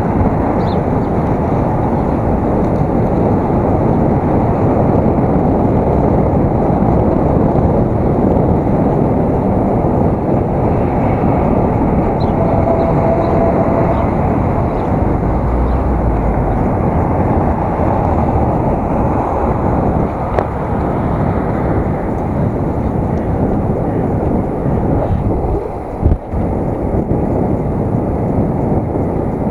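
Steady low rush of wind buffeting an action camera's microphone while riding a bicycle, with a single knock near the end.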